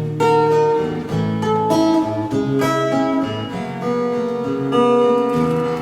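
Acoustic guitar playing chords, with a new chord or note about every half second.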